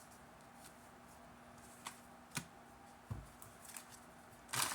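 Tarot cards being handled: a few light clicks and a soft thump, then a short, louder burst of shuffling near the end.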